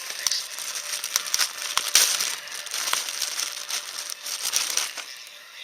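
Crinkling and rustling, thick with sharp clicks, as of something being handled or crushed, easing off near the end.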